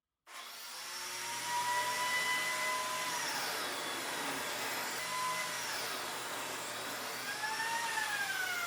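An electric power tool's motor running with a steady whir and hiss. Its whine holds, drops in pitch about three seconds in, and climbs then falls again near the end.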